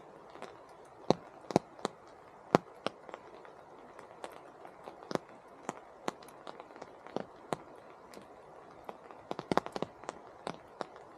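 Rain drips falling from the rainforest canopy, landing as irregular sharp taps and plops, a few a second and some much louder than others, over a faint steady hiss.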